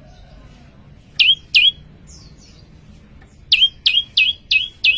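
Prenjak lumut songbird calling loudly: two sharp notes, a few faint chirps, then a fast run of the same note about three times a second from past halfway. Each note drops steeply in pitch and ends with a short upturn.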